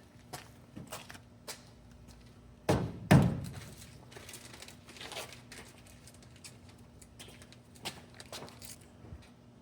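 Scattered light knocks and clicks of objects being handled, with two heavy thuds in quick succession about three seconds in.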